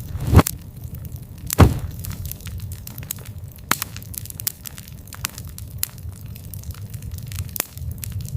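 Wood fire burning with a low steady rumble and constant crackling, with two loud pops close together near the start and a few smaller ones later.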